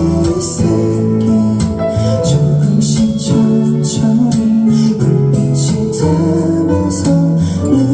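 Live performance of a guitar-led indie ballad: strummed acoustic guitar over a full band, with regular sharp beats marking the rhythm.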